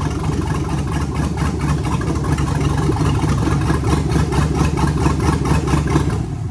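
Cammed 5.3-litre LS V8 with a Brian Tooley Stage 2 truck cam, running at a steady idle with an even, pulsing exhaust beat, newly fired after a rebuild.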